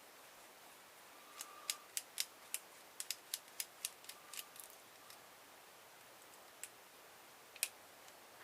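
A run of sharp, light clicks and taps, about a dozen between one and a half and four and a half seconds in, with one more near the end: hand tools and small metal parts such as screws being handled while a car stereo is taken apart.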